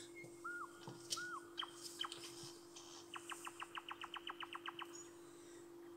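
A small bird chirping twice, then about three seconds in giving a quick trill of a dozen or so rapid notes, over a faint steady hum.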